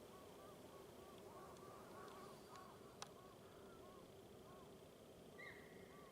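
Faint animal calls: many short chirping calls repeating about twice a second, a single sharp click about three seconds in, and a brief higher call near the end.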